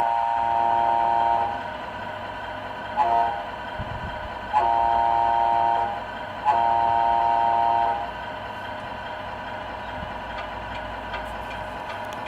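Sound-module air horn of an RC Scania R470 model truck, sounded four times: a long blast, a short toot, then two more long blasts. A steady engine hum from the module runs underneath.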